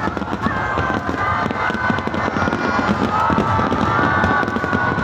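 Fireworks display going off in a dense, unbroken run of bangs and crackling.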